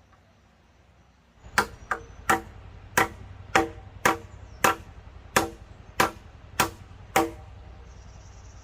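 Repeated blows of a tool on wood: about eleven sharp strikes at a steady pace of nearly two a second, starting about a second and a half in.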